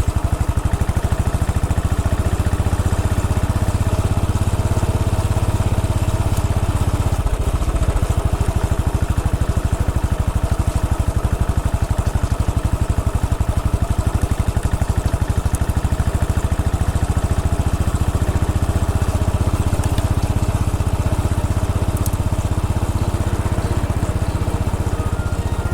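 Royal Enfield Bullet 500 EFI's single-cylinder engine running steadily, its firing pulses coming at an even, rapid rate.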